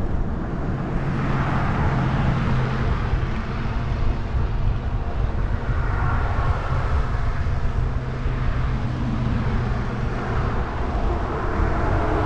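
Wind buffeting the microphone with a steady low hum while riding an e-bike, plus a hiss that swells and fades a few times.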